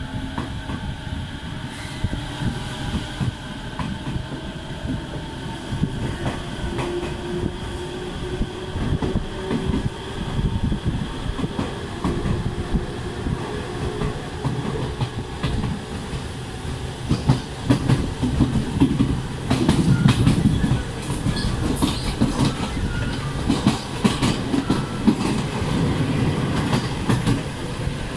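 Electric commuter train accelerating away from a station, heard through a slightly open carriage window. The motor whine rises slowly in pitch over the first half, then wheel rumble and clickety-clack over the rail joints grow louder as it picks up speed.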